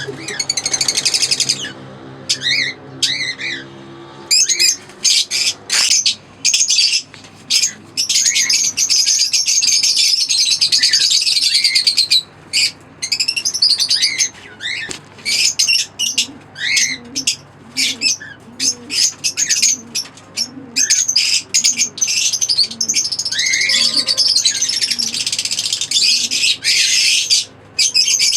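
Lovebirds chirping and chattering in quick, high-pitched runs of calls, broken by short pauses.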